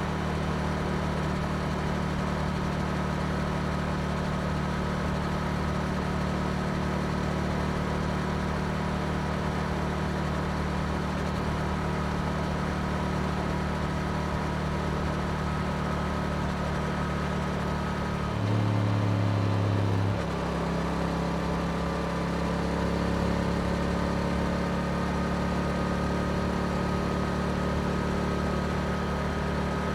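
Yamaha YZF-R7's parallel-twin engine through an Akrapovic exhaust, running at a steady engine speed while riding. A little past halfway the note changes abruptly for about two seconds, then settles at a new pitch that creeps slowly upward.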